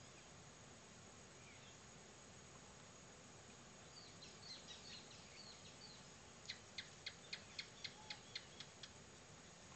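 Faint bird calls over a steady, faint high insect drone: a few short twittering notes about four seconds in, then a quick run of about ten sharp, evenly spaced notes, roughly four a second, that stops near the end.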